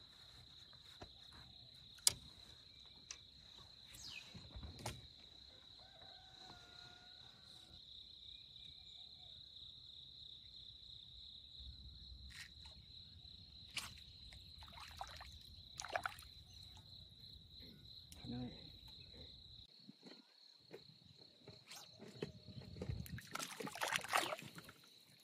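Insects trilling in one steady, high, thin tone with a slight pulse, with scattered faint clicks and knocks. A louder rustling, scraping noise comes near the end.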